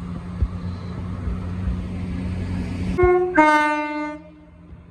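Class 170 Turbostar diesel multiple unit: its diesel engines run steadily, then about three seconds in its two-tone horn sounds, a short high note followed by a longer, lower note.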